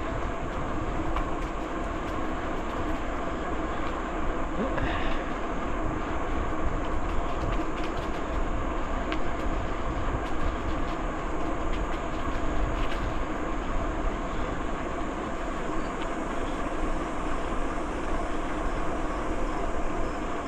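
Bicycle rolling along a trail: a steady rumble and rattle from the tyres and frame that holds level throughout.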